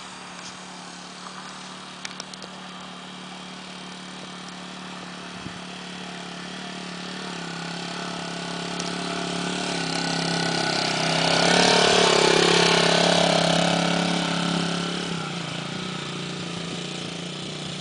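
Dirt bike engine running, growing louder to a peak about twelve seconds in, then fading away.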